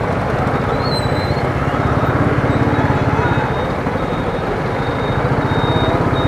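Royal Enfield Thunderbird single-cylinder engine running steadily at cruise, an even low thudding pulse under road noise.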